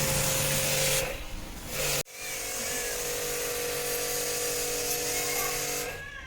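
Small electric motor running with a steady whirring hum. It drops out about a second in and starts again at about two seconds.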